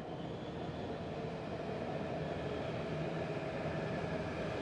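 Steady hum of a CRH high-speed electric train standing at a station platform, with faint steady tones in it, growing slightly louder.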